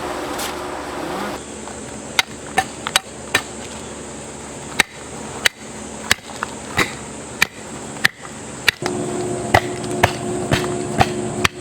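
A hammer striking over and over: about fifteen sharp knocks, irregularly spaced roughly half a second apart, starting about two seconds in, over a steady background hiss.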